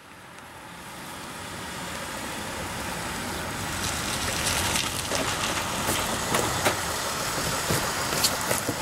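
A sedan's engine running as the car pulls up to the curb and idles, growing louder over the first few seconds and then holding steady, with a few light clicks near the end.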